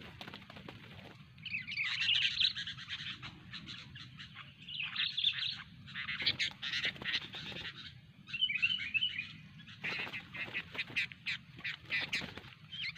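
Sooty-headed bulbul (kutilang) giving bursts of short chattering calls every couple of seconds, mixed with short sharp clicks.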